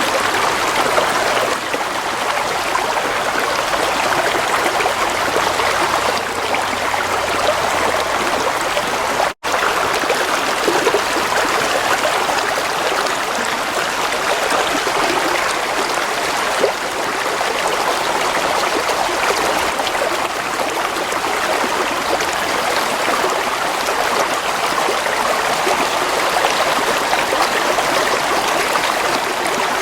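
Gently flowing water running and trickling steadily, with a split-second dropout about nine seconds in.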